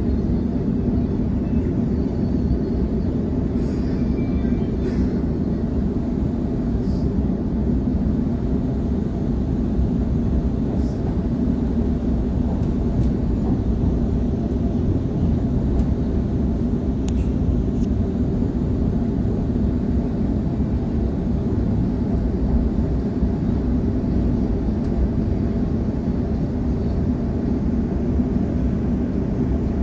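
Sydney Trains electric passenger train running between stations, heard from inside the carriage: a steady low rumble of wheels on track and running gear, with a few faint clicks.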